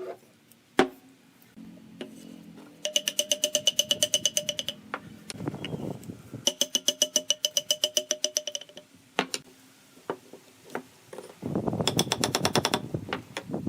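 A tool working bamboo clicks rapidly in three bursts of about ten even clicks a second, each with a ringing tone, and a few single sharp knocks fall between them.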